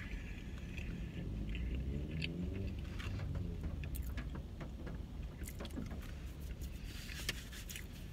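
Close-up chewing of French fries, with small scattered mouth clicks and smacks, over a steady low rumble in a car cabin. A short rustle comes near the end.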